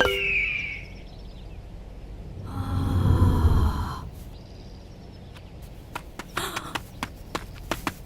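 Cartoon sound effects between music cues: a short falling whistle at the start, then a single rumbling effect about a second and a half long with steady tones over it, then scattered light taps near the end.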